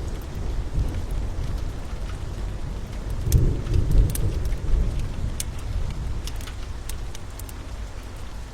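Steady rain with a low rumble that swells and fades about three to four seconds in, and a crackling fire giving scattered sharp pops and snaps throughout.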